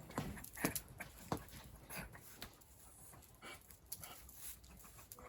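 A dog close by, faint, with a few short clicks and rustles scattered through.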